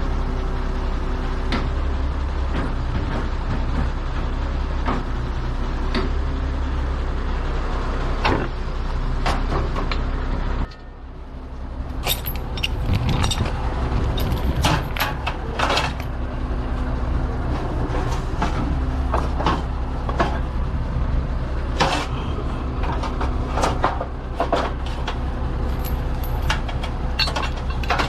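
A heavy truck's engine running steadily, with frequent rattles and clanks over it; the sound cuts off abruptly about eleven seconds in and resumes.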